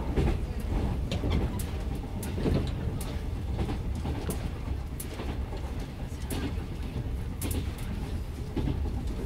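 Cabin sound of a Japanese National Railways Yokosuka Line electric train on the move: a steady low rumble from wheels and running gear, with sharp clicks and knocks scattered irregularly through it.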